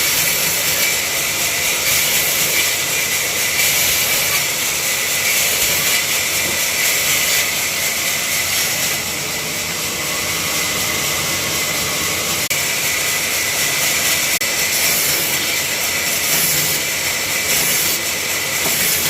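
Woodworking power machine running steadily with a loud, continuous hiss.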